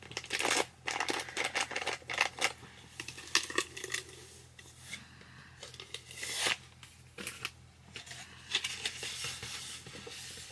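A paper book cover and its packaging being handled and unwrapped: a run of irregular rustles and scrapes, some short and sharp.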